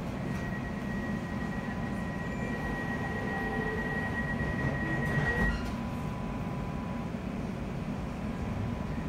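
Interior of a London Overground Class 710 electric train: the carriage's steady low rumble and hum, with a thin high steady whine that stops about five and a half seconds in.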